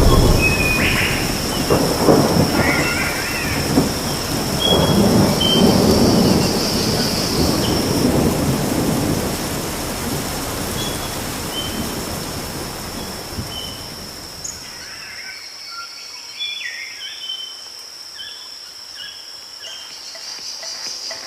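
Thunderstorm: rolling thunder over rain, the rumbles swelling in the first half and dying away about two-thirds of the way through, with short high chirps scattered throughout and a steady high tone.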